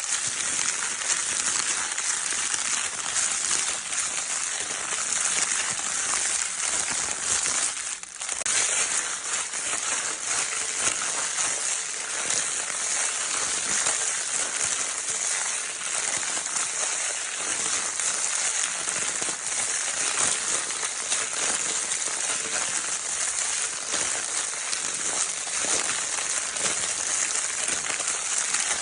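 Crinkle paper from a baby's crinkle toy being crumpled and rustled continuously, a dense, hissy crackle of tiny clicks, with a brief lull about eight seconds in.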